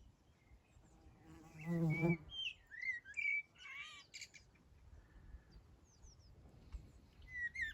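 Wild birds singing with short gliding whistles and chirps, most of them about two to four seconds in. A brief buzz, like a fly passing close, comes just before them.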